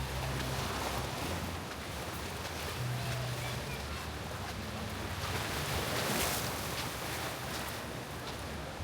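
Steady outdoor wash of noise, like surf and wind on the microphone, swelling about six seconds in.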